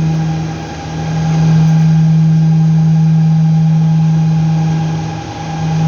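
A steady, loud, low-pitched mechanical hum that dips briefly twice, about a second in and again near the end.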